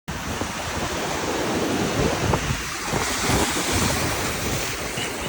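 Ocean surf washing, with wind buffeting the microphone in gusts. The sound starts abruptly.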